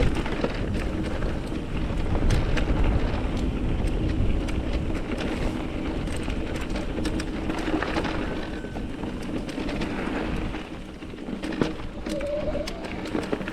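Mountain bike rolling over a rocky desert trail: wind buffets the microphone, with tyre noise and frequent short clicks and rattles from the bike. A brief squeak sounds near the end.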